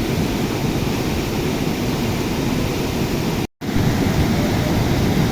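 A river in flood, rushing loudly and steadily. The noise cuts out for an instant about three and a half seconds in, then carries on unchanged.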